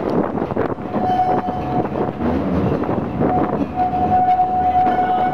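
Botchan Ressha, a diesel-powered replica steam train, running along street track with clattering and rumble. A steady mid-pitched squeal comes in about a second in, breaks off, and returns more strongly for the second half.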